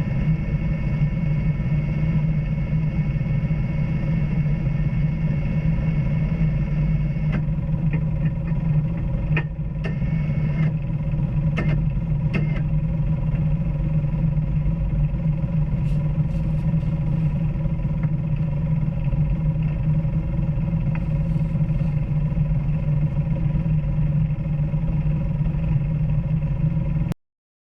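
An off-road vehicle's engine running steadily while driving a trail, with a few knocks about ten seconds in. The sound cuts off suddenly near the end.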